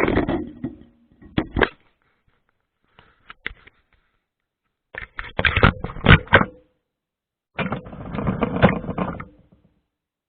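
Inside a running dishwasher, heard from a camera among the dishes: irregular bursts of knocking and rattling, about five of them, with a faint hum under some bursts and dead silence between them.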